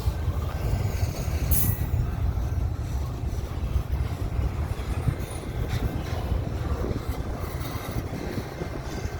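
Long freight train rolling by, its cars and wheels making a steady low rumble, with a short high-pitched burst about a second and a half in.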